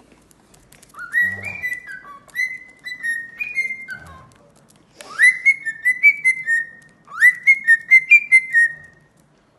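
Cockatiel whistling its song in three phrases of clear notes around one pitch, each phrase opening with a quick upward slide, with short pauses between them.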